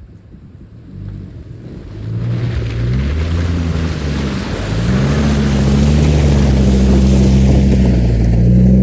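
A vehicle's engine revs up about two seconds in and runs hard under load, its pitch rising and dipping, with a loud rushing hiss over it.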